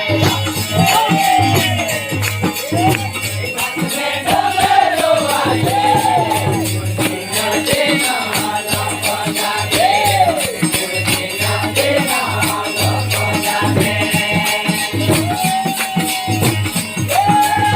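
Devotional bhajan music: a melody that glides up and down over fast, steady jingling hand percussion and a low drone.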